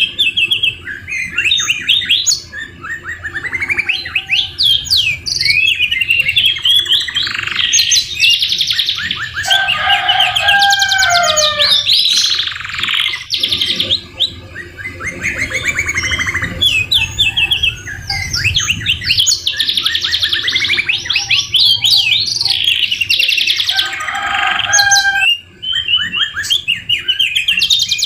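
Domestic canaries singing non-stop in fast rattling trills and rolls, with phrases copied from the white-rumped shama mixed into the song.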